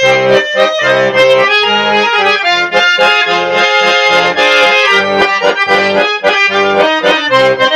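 Accordion (button accordion) playing the instrumental introduction of a Russian song, a melody over a rhythmic bass-and-chord accompaniment.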